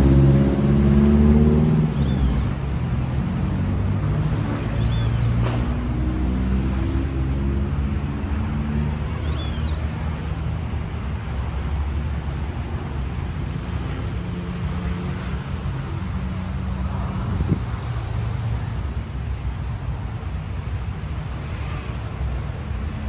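A motor vehicle's engine running close by, its pitch shifting up and down as it drives, with street traffic noise behind it. A bird chirps briefly three times in the first half.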